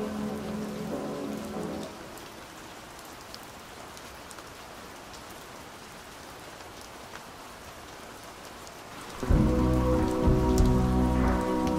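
Steady rain falling on a surface, an even hiss with scattered drop ticks. A slowed, muffled song fades out in the first two seconds, and a new muffled song starts loudly with heavy bass about nine seconds in.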